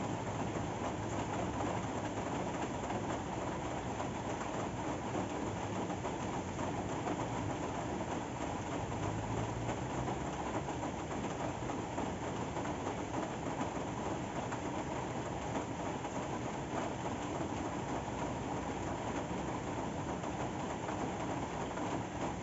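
Steady rain falling, an even hiss with no breaks, with a faint low hum near the start and again about nine seconds in.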